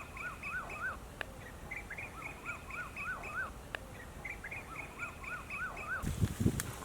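A small bird singing in three bouts of quick, repeated rising-and-falling notes, about three or four a second. A couple of sharp clicks fall between the bouts, and there is some low thumping near the end.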